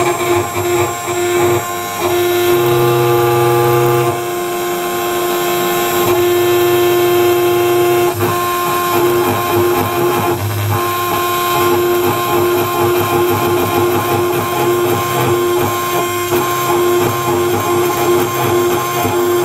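CNC metal engraving router at work: the spindle gives a steady high whine while the axis drives shift pitch now and then as the head moves through the cut.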